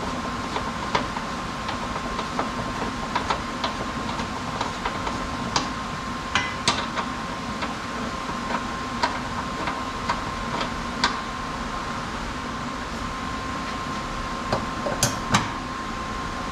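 Scattered sharp metallic clicks and knocks of hand tools on the car's front suspension parts, several close together near the end, over a steady workshop hum.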